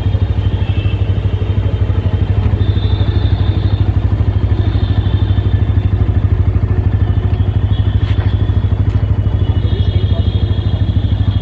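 Bajaj Pulsar N160's single-cylinder engine idling steadily through its stock exhaust, a low, even putter of rapid pulses.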